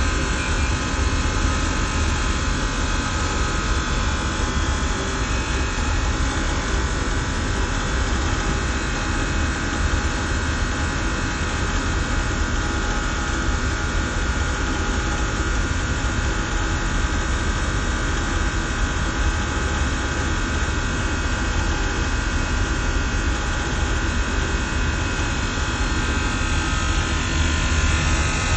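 Systemair chiller–fan-coil HVAC equipment running: a steady, unbroken machine noise with several steady tones, heaviest at the low end.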